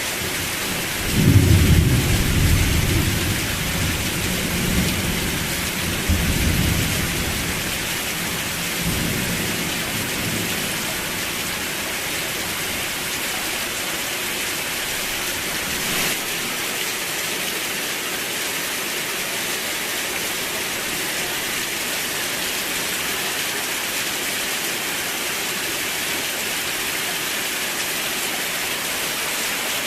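Steady rain hissing, with a clap of thunder about a second in that rolls on in low rumbles for several seconds before fading, leaving only the rain.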